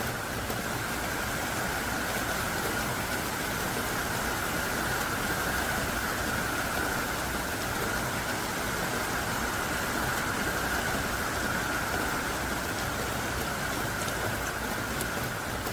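Heavy downpour: thick rain falling steadily, an even, dense hiss of drops with no change in strength.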